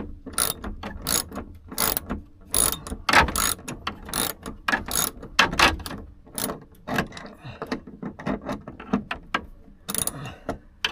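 Hand socket ratchet wrench clicking in repeated short strokes, about two a second, as a stubborn long bolt is worked; the strokes grow lighter after about six seconds.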